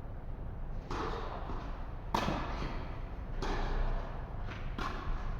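Tennis rally on an indoor court: four sharp racket-on-ball knocks, about one every second and a quarter, with a little hall echo after each.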